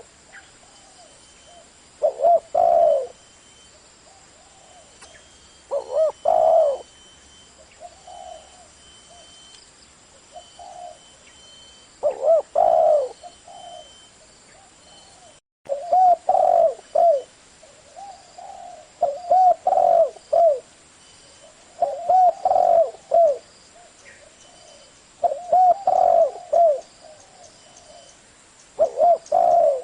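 Spotted dove cooing: short, rhythmic coo phrases repeated every few seconds, about nine in all, with a brief dropout about halfway through.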